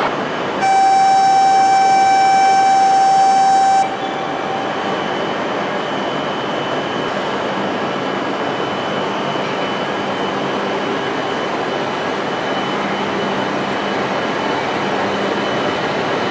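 E5 series Shinkansen train rolling slowly alongside the platform as it runs in to couple with an E3 series train, a steady noisy rumble with a faint high whine. A loud steady tone sounds for about three seconds early on, then cuts off sharply.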